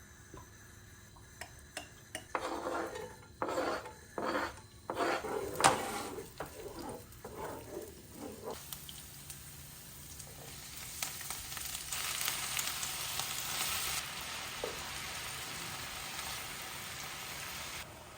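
Food being stirred and scraped in a pan, a run of separate strokes, then food sizzling in hot oil with a steady hiss that cuts off suddenly near the end.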